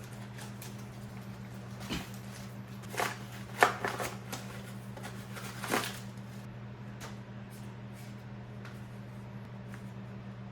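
Several sharp clicks and clinks of tools or small parts being handled during motorcycle disassembly, clustered in the first half, the loudest a little over a third of the way in. A steady low hum lies under them.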